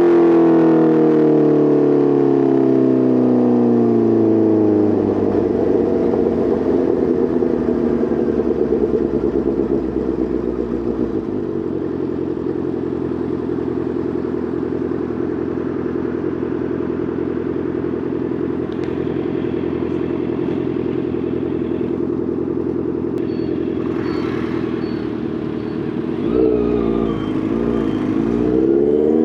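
Honda CBR650R inline-four engine running through an Arrow Pro Race titanium full exhaust. Its revs fall for the first few seconds, then hold steady while cruising, then dip and rise again through gear changes near the end.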